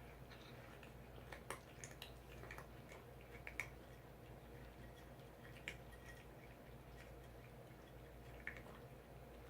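Near silence: a steady low hum with a scattering of faint, short clicks and ticks.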